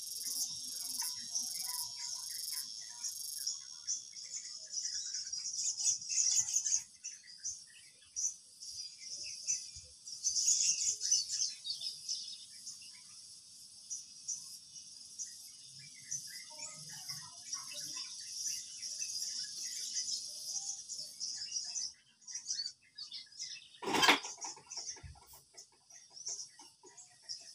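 A steady, high-pitched outdoor chorus of insects, with scattered faint chirps, and one sharp knock about 24 seconds in.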